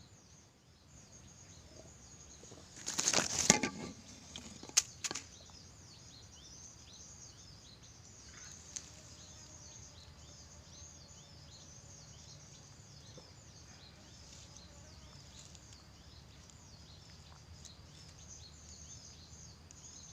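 Small birds chirping in many quick, high, falling notes. About three seconds in there is a brief loud rustle, and two sharp clicks follow a little later.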